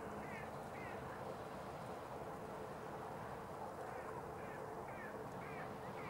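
A few faint, short twisting bird calls, two close together just after the start and several more around four to five seconds in, over a steady noisy outdoor background with a faint constant hum.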